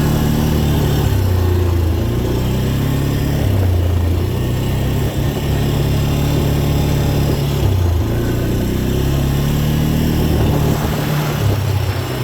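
Dirt bike engine running under load as it is ridden along the trail, its pitch dropping and climbing again several times with the throttle.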